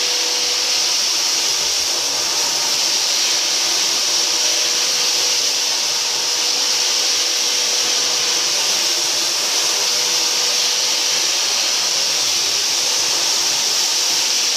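Floor sanding machine with an attached dust vacuum running steadily on a wood floor: an even hiss with a faint steady hum.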